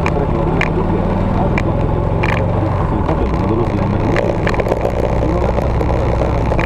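Victory motorcycle's V-twin engine running steadily, with a few short clicks over it.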